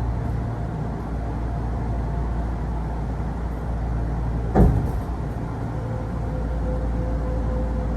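Kintetsu electric commuter train running, heard from inside the passenger car: a steady low rumble of wheels and running gear, with one sharp knock about halfway through. A steady mechanical tone sets in near the end.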